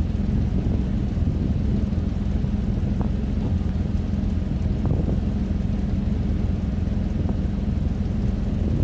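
Plow truck's engine idling steadily, with a few faint light clicks of metal on top.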